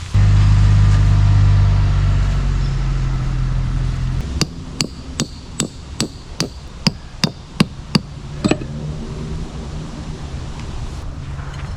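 About ten hammer blows, roughly two and a half a second, as tent stakes are driven into the ground. They are preceded by a loud, steady low hum that stops suddenly about four seconds in.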